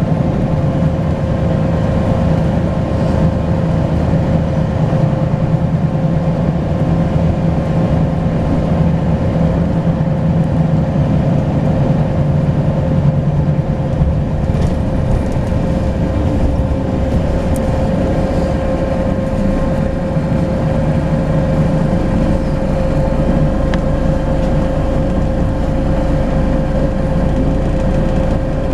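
Volvo B10BLE bus diesel engine running under way, heard on board, with a steady high turbocharger whistle held throughout. The low engine note eases off about halfway through.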